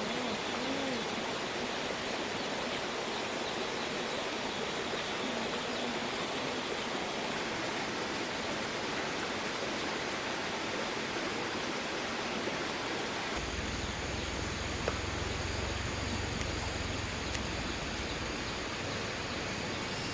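Steady rushing outdoor background noise. About two-thirds of the way through, a low rumble joins it and the highest part of the hiss drops away.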